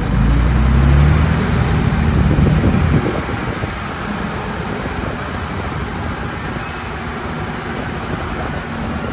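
Diesel engine of heavy earth-moving machinery running under load, louder for about the first three seconds, then settling to a steady, quieter run.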